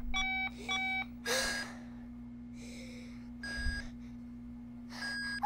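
Several short, flat-pitched electronic beeps, with two breathy gasps between them, over a steady low hum.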